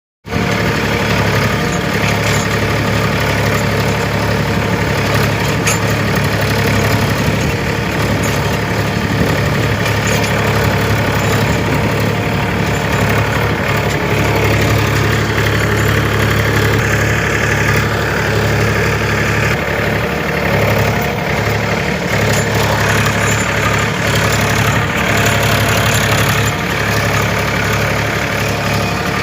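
Tractor diesel engine running steadily while ploughing a field.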